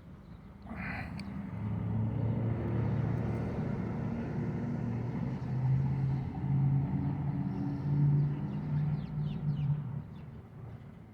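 A motor vehicle's engine running close by. It builds up about a second in, rises in pitch a couple of times, and dies away near the end.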